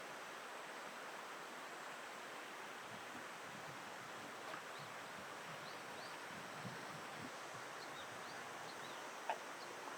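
Eastern spot-billed duck ducklings giving faint, short, high peeps now and then over a steady rushing background of water and wind. A louder, sharper sound comes near the end.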